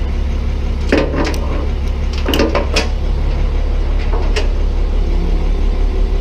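Steel chain clinking and rattling in several short bursts as its links are handled and re-hooked, over a steady low hum.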